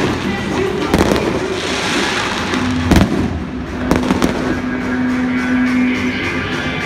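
Aerial fireworks bursting: several sharp bangs, the loudest about three seconds in, with more around one and four seconds in, over a constant din of the show. Music plays beneath, holding one low note from about midway.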